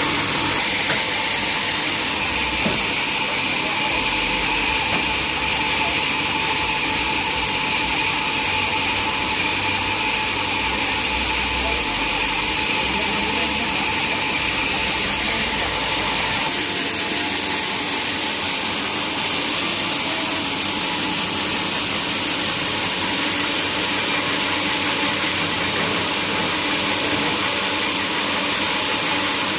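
Sawmill machinery running steadily, a loud hiss with a constant whine; the low rumble underneath drops away about halfway through.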